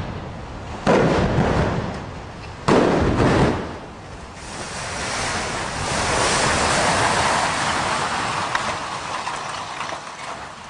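Explosive demolition of tower blocks: two more sudden blasts about a second apart and then a second later, each echoing away, followed by a long rushing rumble from about four and a half seconds in that swells and slowly fades as the structure collapses.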